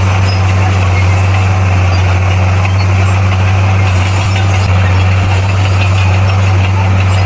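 Heavy earthmoving machine's diesel engine running steadily at a constant speed, a continuous low drone.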